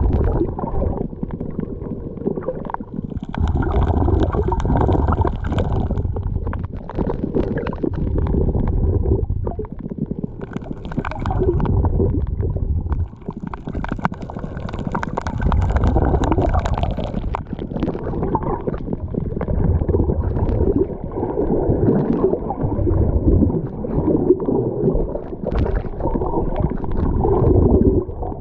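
Seawater sloshing and gurgling close to the microphone, with a heavy low rumble that swells and eases in uneven surges every few seconds.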